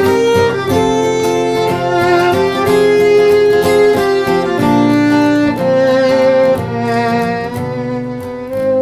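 Bowed violin playing a melody of long, held notes over strummed guitar: an instrumental break in a live acoustic song performance.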